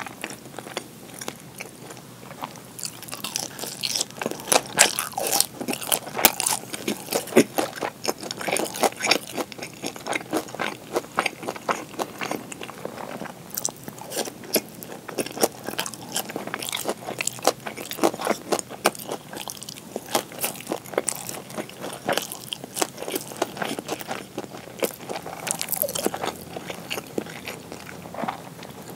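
A person chewing pan-fried gyoza with crisp browned bottoms: many irregular crisp crunches and crackles, one after another.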